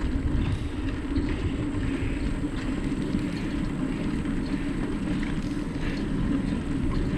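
Steady rumble of a bike being ridden along a trail: tyre and wind noise on the microphone, with a steady low hum running under it.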